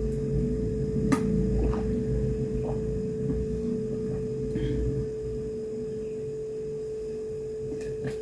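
A steady high-pitched electrical hum, with a sharp click about a second in and a few faint ticks.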